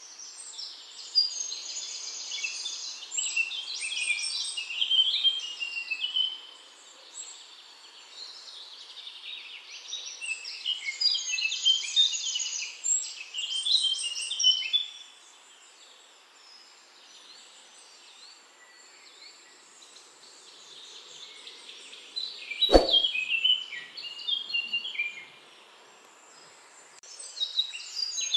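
A songbird singing in bouts of quick, varied chirps and whistles, each bout lasting a few seconds with short pauses between. A single sharp knock comes about 23 seconds in.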